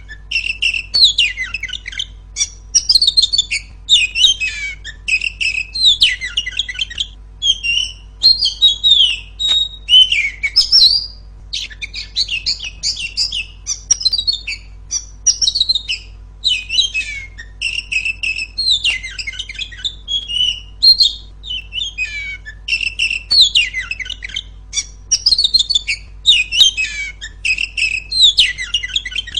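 Female Oriental magpie-robin (kacer) singing a loud, clear, continuous stream of varied chirps, whistles and warbled phrases with only brief pauses, over a faint steady low hum.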